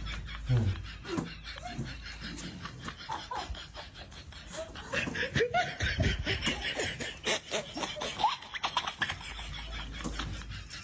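Quiet laughter: a person laughing under their breath in short spells, on and off.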